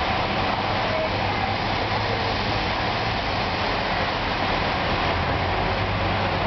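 Torrential rain pouring down in a steady, even roar, with a low hum underneath.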